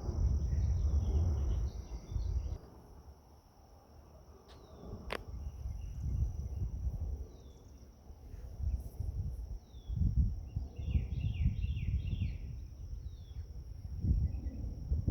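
Wind buffeting the microphone in gusts over a steady high insect trill, with short falling bird chirps scattered through and a quick run of them about eleven seconds in.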